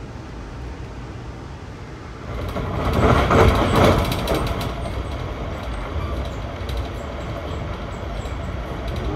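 Running noise of a moving passenger train heard from inside the coach: a steady rumble that grows louder about two seconds in, with fast clicking over the rails, then eases off.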